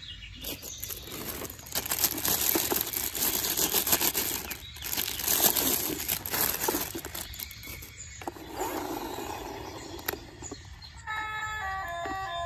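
Rustling, clattering noise full of small clicks, with two brief pauses. About eleven seconds in, a simple beeping electronic tune begins.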